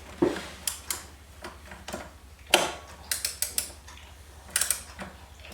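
Irregular clicks and knocks of a screwdriver and metal parts as a component is screwed into a desktop PC case. The loudest knock comes about two and a half seconds in, followed by clusters of quick clicks.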